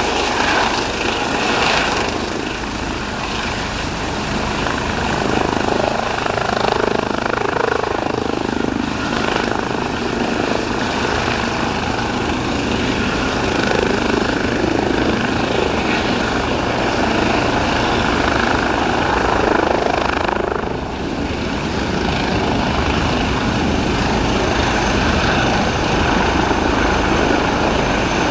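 Eurocopter EC135T2 twin-turbine helicopter running, loud and steady, with rotor and turbine noise and a thin steady high whine. The sound dips briefly about two-thirds of the way through.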